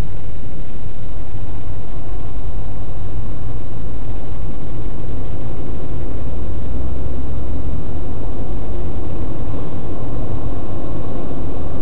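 Steady low rumble of a car driving on an expressway: engine and road noise, loud and continuous, with no distinct events.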